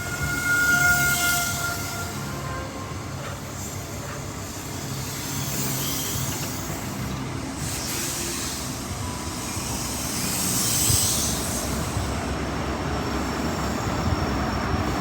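HST (InterCity 125) with class 43 diesel power cars moving through the station: a steady low engine drone, with three swells of high hiss from wheels and brakes and a thin high-pitched tone that dies away about a second in.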